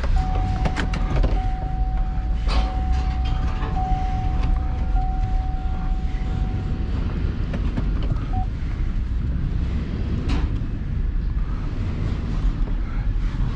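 Truck engine running, heard from inside the cab, as the loaded truck is moved a short way. A steady high tone sounds for about the first seven seconds, and a few clicks come over the engine.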